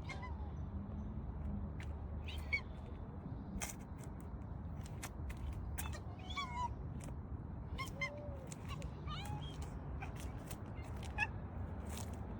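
Short chirping animal calls, a few scattered through, each gliding up or down in pitch, over a steady low hum with scattered sharp clicks.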